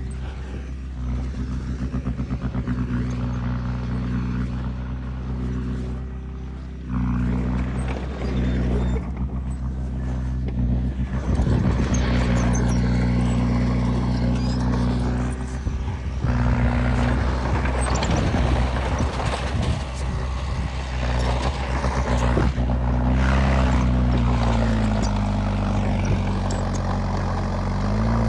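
Diesel engine of heavy earthmoving machinery running steadily with rattling and clanking, getting louder about seven seconds in; its pitch dips and rises near the end as the load changes.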